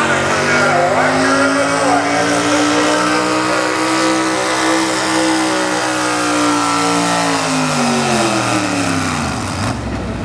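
A two-wheel-drive super stock pulling truck's engine revving hard under load during a sled pull. Its pitch climbs, holds high, then falls away as the run ends, and the sound breaks off suddenly near the end.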